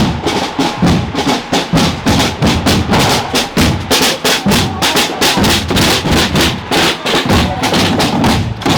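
Parade drum band beating a fast, steady rhythm.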